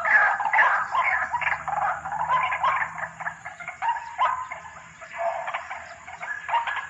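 White-breasted waterhen (ruak-ruak) calling: a string of repeated calls, about two a second. It eases off somewhat past the middle, then breaks into a quicker run of notes near the end.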